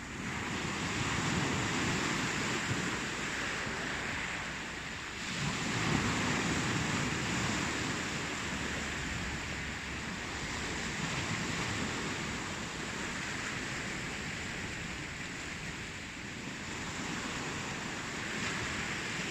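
Ocean waves: a steady rushing surf whose level swells as each wave comes in, about half a second in and again around six seconds.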